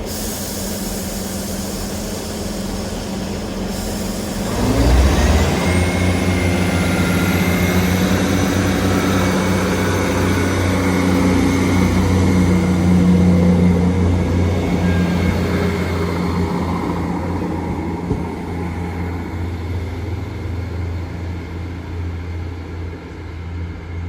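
Two coupled Class 158 diesel multiple units pulling away: a steady engine note, then about four and a half seconds in the engines rev up with a steeply rising whine. They run loudly for several seconds and then slowly fade.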